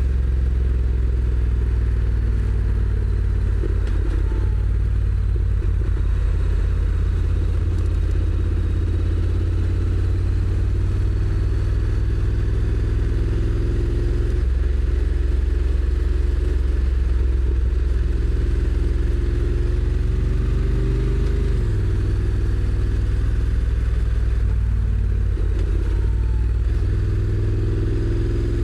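Honda NC750X's parallel-twin engine running under way, a steady low rumble whose pitch rises and falls with road speed, with a quick drop about two-thirds of the way through. Wind noise hisses over the engine.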